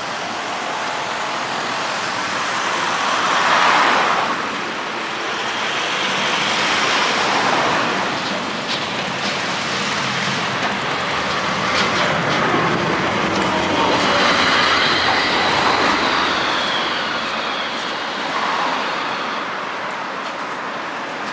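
Manyōsen streetcar running along its rails, heard from inside the car: a continuous rolling rumble that rises and falls several times, with a faint high whine in the second half.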